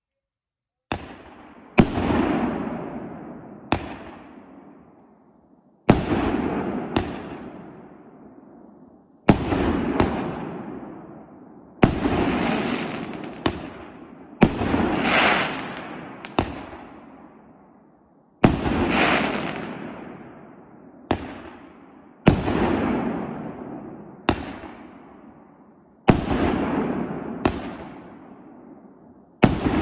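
A Blue Bird 2-inch, 36-shot fireworks cake firing shot after shot, about one every two seconds. Each shot is a sharp bang followed by a hissing tail that fades away over a couple of seconds.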